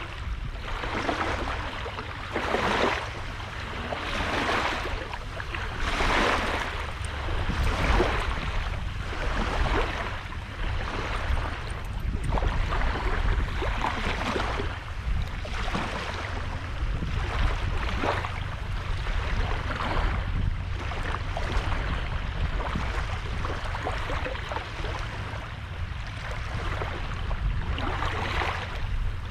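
Sea waves washing onto a sandy beach, the surf swelling and falling back every second or two, over a steady low rumble.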